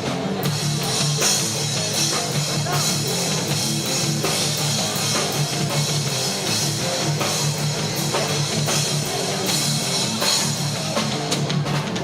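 Hardcore band playing live: distorted electric guitars and a drum kit driving steadily, with cymbals crashing throughout and no vocals.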